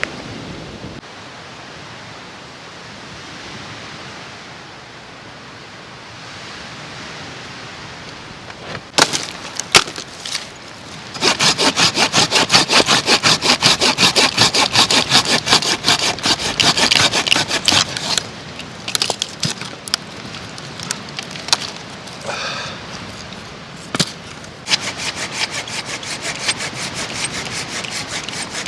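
Hand saw cutting through wood in quick, even back-and-forth strokes, about four a second, for roughly seven seconds, then starting again near the end. Before the sawing there are a few sharp knocks of wood being handled.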